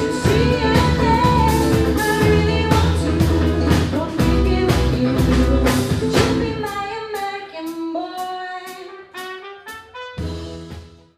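A live band playing, with singing and a steady beat over bass. About six seconds in, the bass and drums drop out, leaving a lone melodic line over light ticking percussion that fades near the end.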